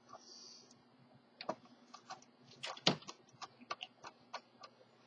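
Irregular sharp clicks and taps of a screwdriver against hard plastic as screws are worked out of the base plate of a Hoover upright vacuum, the loudest click about three seconds in.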